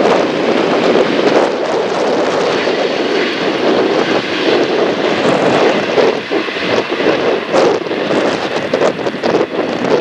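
Jet engine noise from a Singapore Airlines Airbus A350-900 with Rolls-Royce Trent XWB turbofans, loud and steady. Wind buffets the microphone in gusts that come more often in the second half.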